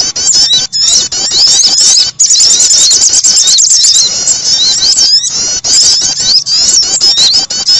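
Recorded bird-lure calls of small songbirds, sogon and prenjak: a dense, continuous stream of rapid, high-pitched chirps and squeaky trills, many overlapping, with a few brief breaks.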